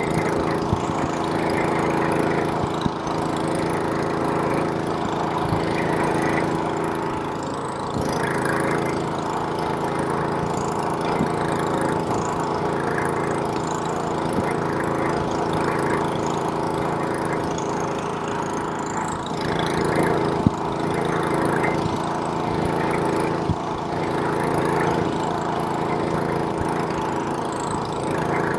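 Snowblower's small engine running steadily, with a few brief sharp knocks.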